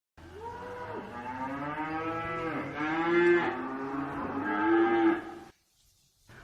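Cow mooing in long, drawn-out calls that stop about five and a half seconds in.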